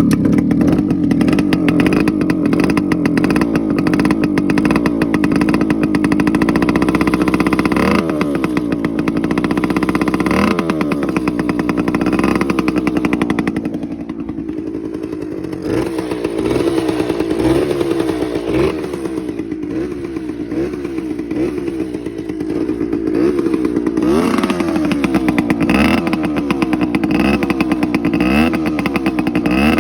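Suzuki TC125's small two-stroke single-cylinder engine running after a spark plug swap, idling steadily and then revved again and again with quick throttle blips through the second half.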